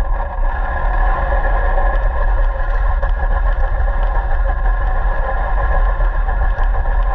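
Radio-controlled car running steadily: an even motor whine over a heavy low rumble.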